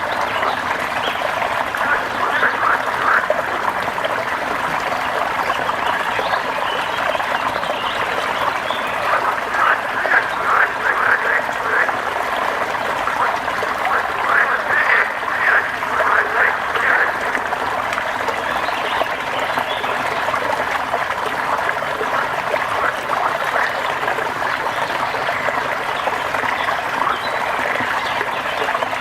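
Dense chorus of frogs calling, the croaks swelling into louder bursts now and then, over a steady hiss.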